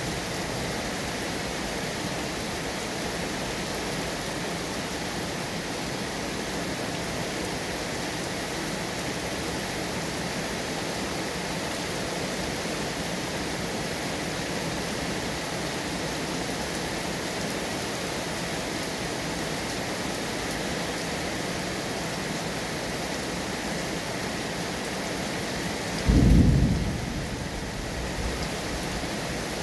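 Steady heavy rain falling. Near the end comes a sudden deep rumble of thunder, louder than the rain, which fades over a second or two with a smaller rumble after it.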